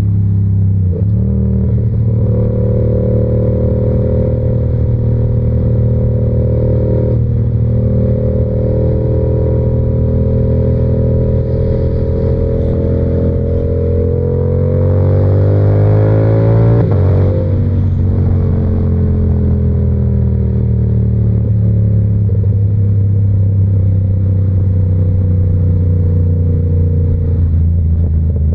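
Yamaha R7's 689 cc parallel-twin engine through an SC-Project exhaust, running under way. The note holds steady with a couple of brief breaks, climbs in revs for a few seconds past the middle, drops sharply, then slowly winds down as the bike rolls off.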